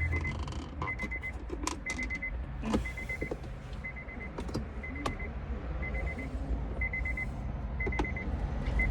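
A car's warning chime beeping in short rapid bursts about once a second, over a steady low rumble. Scattered clicks and knocks of the plastic center-console trim being pried at and worked loose.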